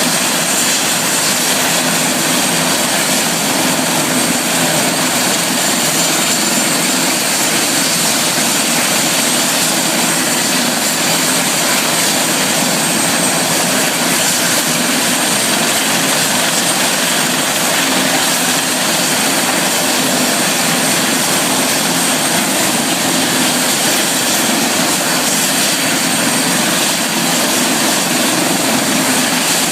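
Helicopter engine and rotor noise, a loud, steady drone with a thin high whine above it and no change in pitch or level.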